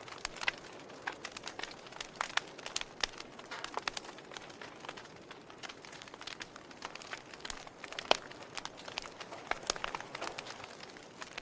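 Fire crackling: irregular sharp pops and snaps over a low steady hiss of burning, with one loud pop about eight seconds in.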